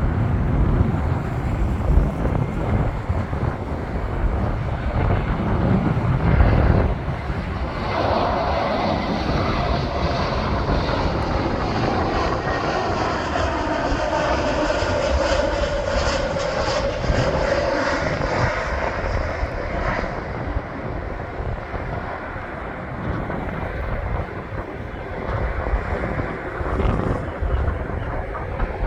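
Air New Zealand jet airliner landing, its engines heard as a low rumble that gives way, about eight seconds in, to a whine slowly falling in pitch, which fades after about twenty seconds.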